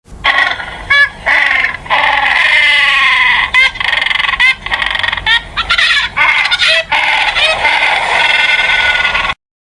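A flock of domestic fowl calling, many overlapping calls at once. The sound cuts off abruptly near the end.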